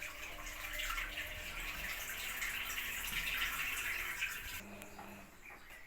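Hisense washing machine draining: water rushes steadily out through the drain pump and hose, freely now that the blockage has been cleared, then cuts off about four and a half seconds in as the drum empties.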